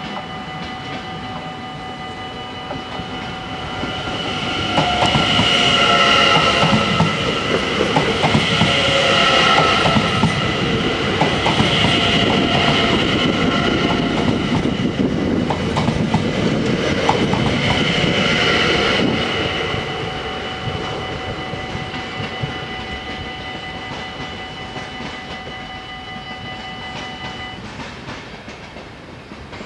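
Level-crossing warning bells ringing steadily while an NS Sprinter electric train passes over the crossing. The train's rumble and wheel clicks build about four seconds in, stay loud for some fifteen seconds, then fade, and the bells stop near the end.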